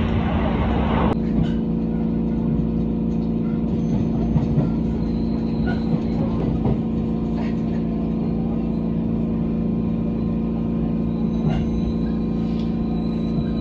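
Steady electrical hum of an electric train, several fixed tones held level, with a few faint clicks and knocks. A louder rushing noise cuts off abruptly about a second in.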